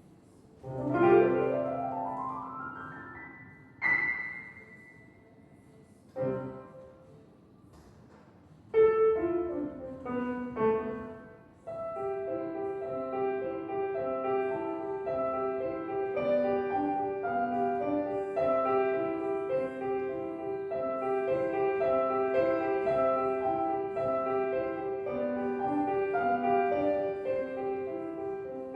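Street piano being played: a quick upward glissando about a second in, a few separate struck notes and chords, then from about twelve seconds a steady, repeating left-hand accompaniment under a melody.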